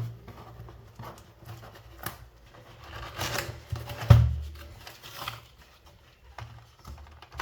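A parcel being opened by hand: rustling and scraping of the packaging, with a single low thump a little past four seconds in.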